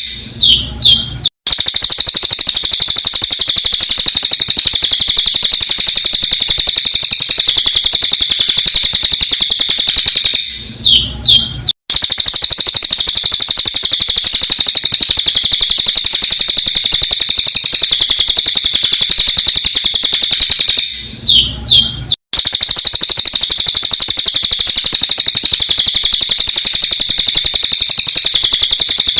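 Cililin bird song played sped up: a loud, dense, rapid stream of high, sharp chirps. It breaks about every ten seconds (right at the start, about 10 s in and about 21 s in) for a second or so of a few separate chirps and a brief dropout before the stream resumes, as a looped recording does.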